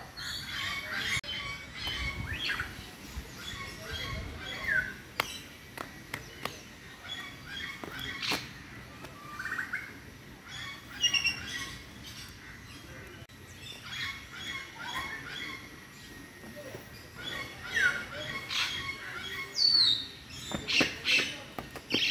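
Birds chirping and calling on and off: short high chirps, a few quick falling whistles, and scattered sharp clicks.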